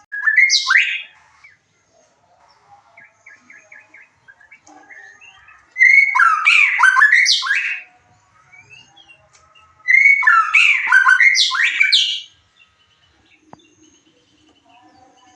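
White-rumped shama (murai batu) singing: three loud phrases of fast, varied whistles and sweeping notes. A short phrase comes at the start, then two longer ones of about two seconds each, with pauses between them.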